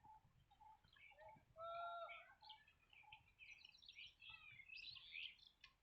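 Faint birdsong: several birds chirping in quick short notes, with one louder, clearer call about two seconds in.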